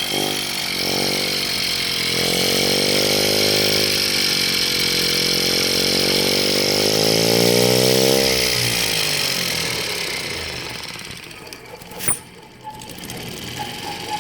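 Small model nitro engine converted to run on compressed air, running fast with a hiss of air, its speed rising and falling before it winds down and stops about ten seconds in. A single sharp click follows about two seconds later.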